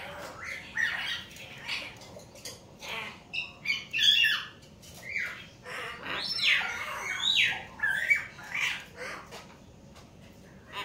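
Hill mynas calling: a rapid series of short squawks and whistled notes, loudest around the middle.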